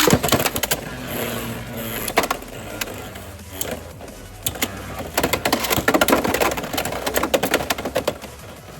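Beyblade X spinning tops, including Arc Wizard R 4-55LO, launched into a plastic stadium: a launcher rip at the start, a spinning whir, then rapid clattering clicks and knocks as the tops collide and scrape. The clashing is densest in the second half and thins out near the end.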